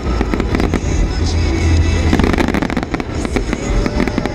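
Aerial fireworks show: shells bursting in quick succession with dense crackling over a low rumble, and a long steady whistle starting near the end.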